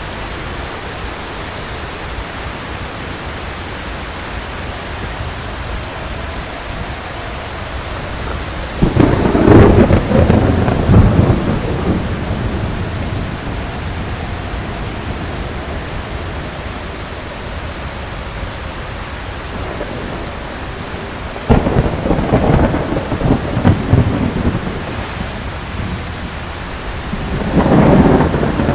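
Steady heavy rain with three peals of thunder. The first breaks suddenly about nine seconds in and rumbles for about three seconds. The second starts with a sharp crack a little past twenty seconds and rolls on for a few seconds. The third swells up gradually near the end.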